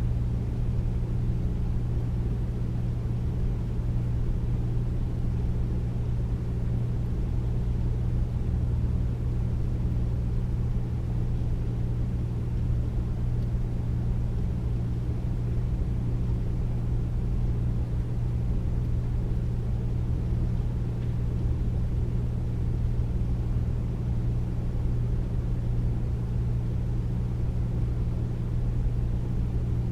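Air conditioner running steadily: a constant low hum with a deep rumble of moving air, unchanging throughout.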